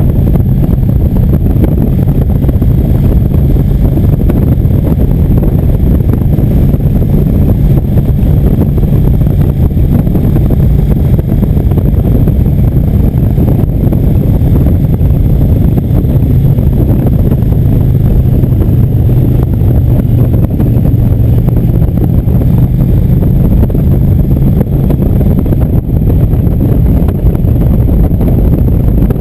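Indian motorcycle engine running at a steady cruise, its pitch holding fairly even, under heavy wind buffeting on the microphone.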